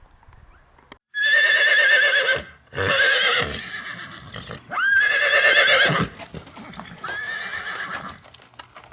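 A horse neighing: four whinnies in a row, each with a quavering pitch, the last one fainter.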